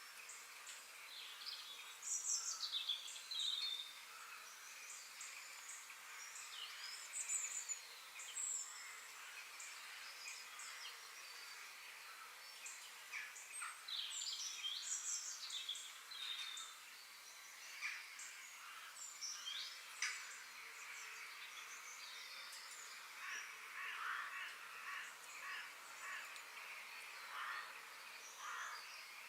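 Several songbirds singing and calling: many short chirps, whistled glides and trills, overlapping and irregular, over a faint steady background hiss.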